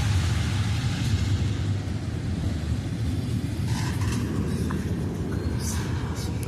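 Freight train running with a steady low rumble, with a few short clicks and brief sharper noises in the second half.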